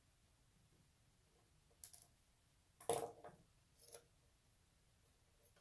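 Light clicks and a short clatter of small plastic and metal parts being handled while a bike trigger shifter is opened up: a faint click about two seconds in, a louder clatter about three seconds in, and a lighter click a second later.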